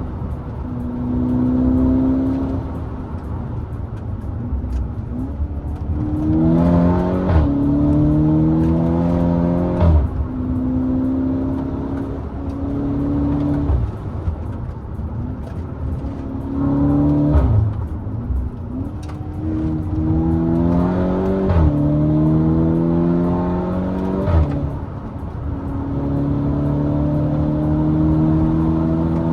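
Volkswagen Golf GTI Edition 35's turbocharged 2.0-litre four-cylinder, with a decat downpipe, pulling hard through the gears: the engine note climbs in pitch and drops sharply at each DSG upshift, several times over, with a short crack (a "DSG fart") at some of the shifts.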